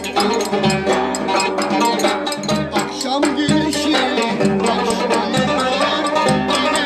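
Instrumental Turkish folk dance tune (oyun havası) played live, with a steady percussion beat under the melody.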